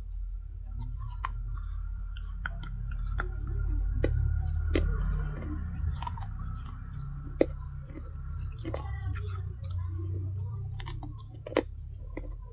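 A person biting and chewing pieces of a baked clay handi (earthenware pot), with irregular crisp crunches over a low chewing rumble. Two louder cracks come, one past the middle and one near the end.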